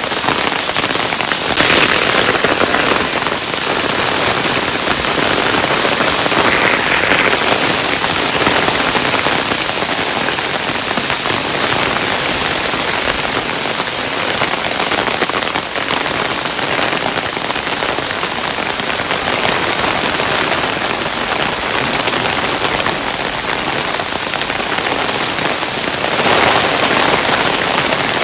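Hailstones falling and pattering on a hard surface, a dense steady crackle, swelling slightly about two seconds in and again near the end.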